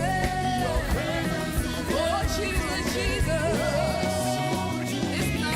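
Worship music: keyboard chords over a steady bass, with a singer's long, wavering held notes and no clear words.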